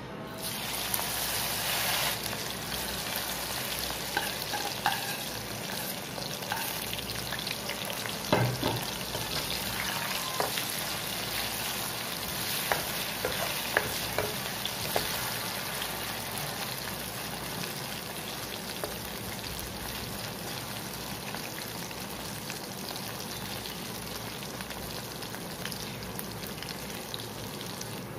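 Batter-coated soya chunks sizzling in hot oil in a kadai, the hiss surging as the chunks go in and then settling into a steady frying sizzle. A metal slotted spoon knocks and scrapes against the pan a few times while stirring, mostly in the middle stretch.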